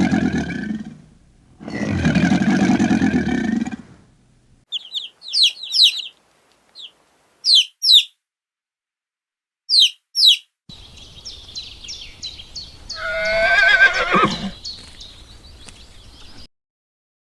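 A string of different animal calls: two long, harsh low-pitched calls, then short high chirps in quick pairs, then a wavering call of about a second and a half over a faint bed of chirping.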